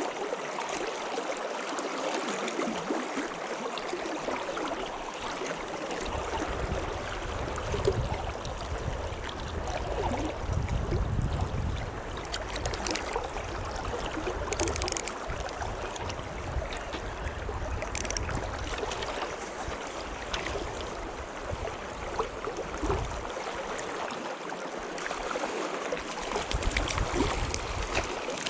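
Steady rush of flowing stream water, with a low rumble underneath through the middle stretch.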